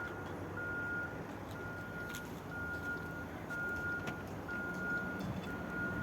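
A car's electronic warning chime beeping steadily about once a second, each beep a single high tone, over a low steady engine hum.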